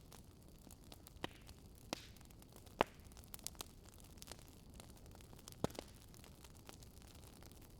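Wood fire crackling: sharp irregular pops and snaps over a soft low hiss, the loudest pop about three seconds in.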